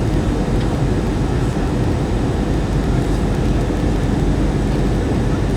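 Steady cabin noise inside an Airbus A321 airliner in flight: an even rumble of engines and airflow with a faint steady hum.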